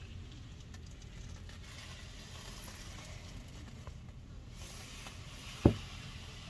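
Steady wind noise with light pattering and faint ticks, and one sharp thump near the end.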